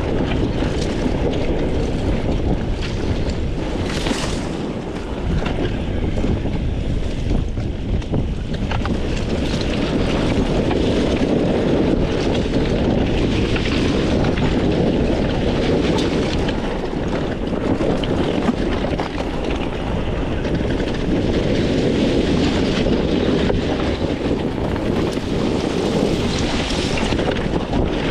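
300 cc two-stroke dirt bike engine running as it is ridden, mixed with wind buffeting the microphone; the sound stays steady, with small rises and dips in loudness.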